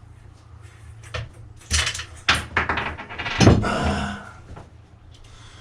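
A run of knocks, clatter and scraping from metal parts and tools being handled, loudest about three and a half seconds in, over a faint steady low hum.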